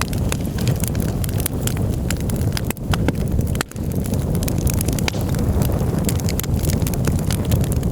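Campfire burning: wood crackling and popping in quick irregular snaps over a steady low rumble.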